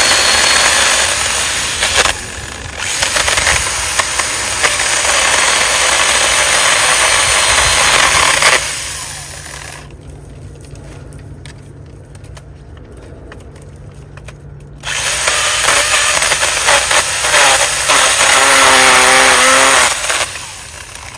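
Handheld power saw cutting through thick tree branches. It runs in two long stretches of several seconds, dipping briefly about two seconds in and going much quieter for about five seconds in the middle. Shortly before it stops near the end, a pitched hum comes through.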